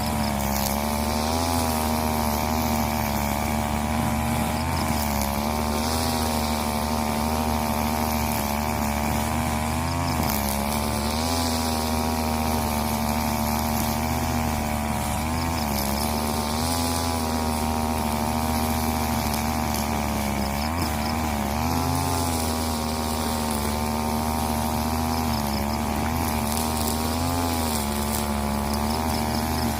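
Husqvarna 541 two-stroke brushcutter running at high throttle, its pitch sagging briefly and recovering every few seconds.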